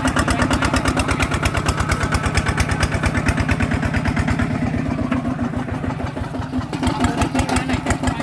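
Single-cylinder diesel engine of a ZT 155 Plus tractor running with a rapid, even chugging. The sound drops back and softens about five seconds in, then picks up again near seven seconds.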